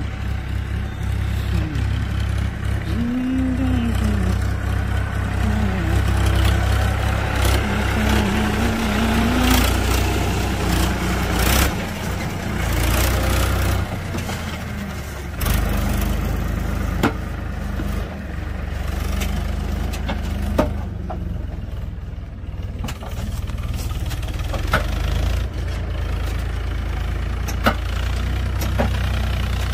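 Diesel tractor engine running at work, with sharp knocks and clanks now and then.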